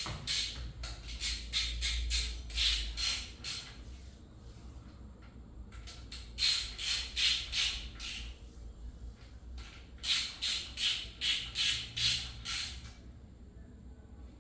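Hand tool worked in quick repeated strokes on an engine under assembly, in three runs of about three rasping strokes a second with short pauses between them.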